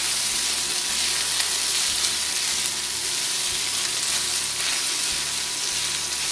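Chicken pieces and chopped onion sizzling in hot oil in a deep frying pan, with a steady hiss, while a spatula stirs them.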